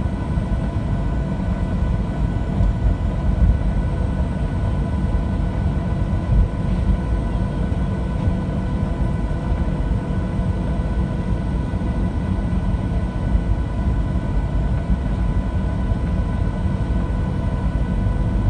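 Steady cabin noise of a Boeing 737-700 airliner: a deep, even rumble of engines and airflow with a constant hum of several steady tones above it.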